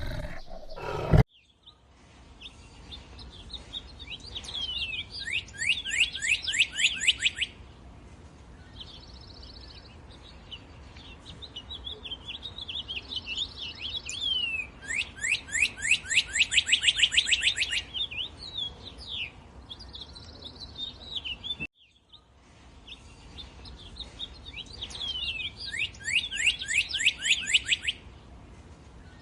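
Songbird singing in three bouts, each a quick run of repeated downward-sweeping notes over a higher trill, over a faint steady background hum. A loud low animal sound is cut off about a second in.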